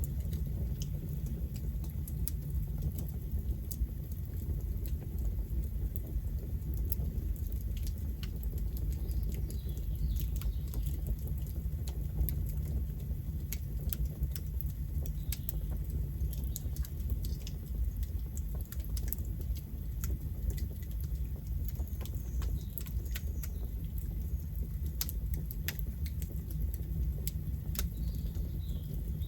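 Campfire burning: wood crackling and popping in frequent, irregular sharp snaps over a steady low rumble of the flames.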